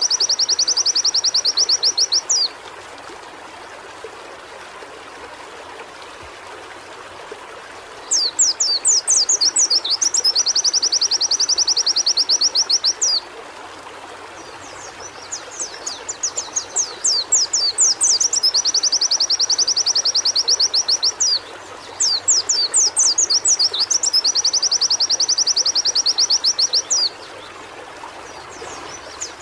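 White-eye (pleci) singing in repeated bouts: quick high sweeping chirps that run into a fast, even high trill, each bout lasting a few seconds, with short pauses between, over a steady faint hiss.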